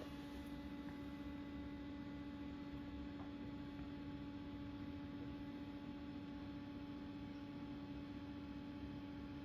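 Constructa Energy washing machine running at the start of a 60 °C cotton wash: a steady hum over a faint, even hiss.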